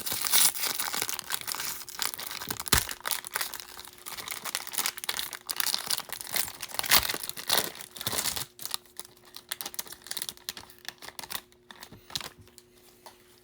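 A baseball card pack's wrapper being torn open and crinkled, busiest for about the first eight seconds, then fading to faint scattered rustles.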